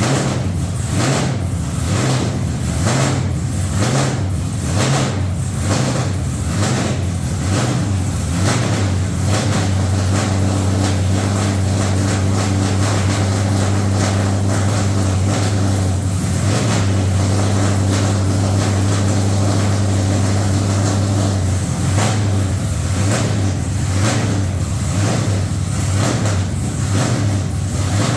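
Methanol-fuelled LS V8 in a truck running loud on its first start-up. It pulses unevenly at one to two beats a second at first, settles into a steadier note after about nine seconds, and pulses again near the end.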